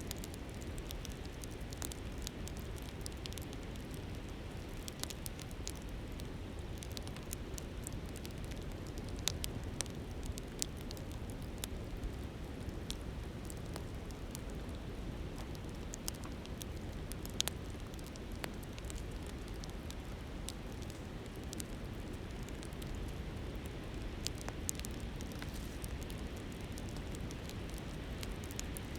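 Wood campfire crackling, with scattered sharp pops and ticks at irregular intervals, over the steady rush of a flowing river.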